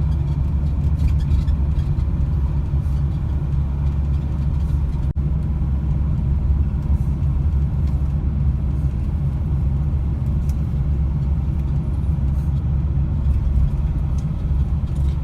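Steady low rumble of a motor vehicle driving, road and engine noise, with a momentary dropout about five seconds in.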